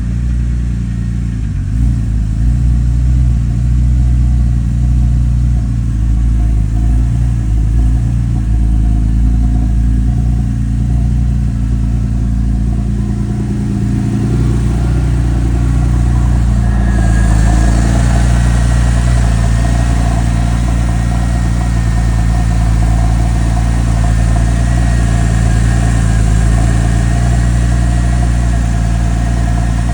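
Porsche 996's water-cooled flat-six engine idling steadily just after a cold start. About 17 s in, a higher whine and a hiss join the idle and stay.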